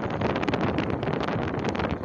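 Wind buffeting the microphone: a steady rushing noise with rapid irregular crackles.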